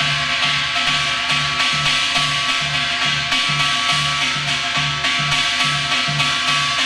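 Korean janggu (hourglass drum) rhythm in the Gyeongsang-do shaman-ritual jajinmori pattern, played briskly with dense interlocking strokes and a steady low drum beat about two and a half times a second.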